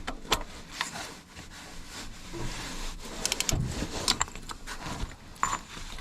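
Scattered metal clicks and scrapes of hand tools, with a quick run of clicks about three seconds in, as a 36 mm socket works a stud extractor on a broken exhaust manifold stud.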